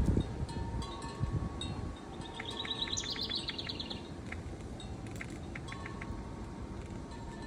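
Wind chimes ringing, with sustained tones and scattered strikes. About two seconds in, a bird gives a quick run of high chirps lasting a couple of seconds.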